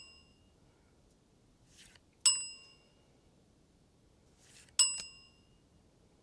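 A soft whoosh followed by a sharp, bell-like ding that rings and fades in about half a second, repeating about every two and a half seconds: two full dings, plus the fading tail of one at the start. A reveal sound effect played as each card is shown.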